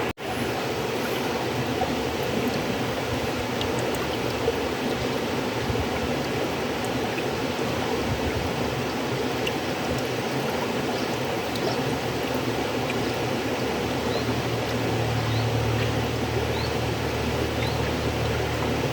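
River water flowing steadily, a continuous rushing with small trickles and splashes, broken by a split-second dropout at the very start. A deeper rumble swells a little near the end.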